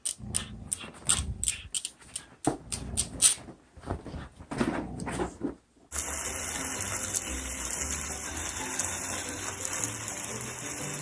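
Irregular clicking and knocking for about six seconds, then a sudden switch to a steady rushing noise.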